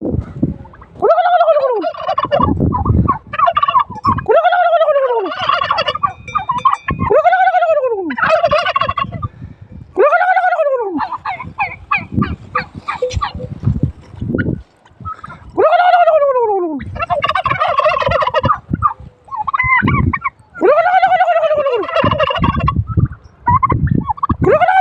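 Domestic turkeys gobbling over and over: loud calls that rise and fall in pitch, repeated about every three seconds, with rapid rattling gobbles between them.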